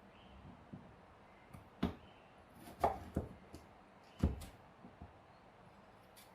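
Kitchen work: a handful of unevenly spaced knocks and taps, like utensils or food being handled on a counter or cutting board, the loudest about two, three and four seconds in.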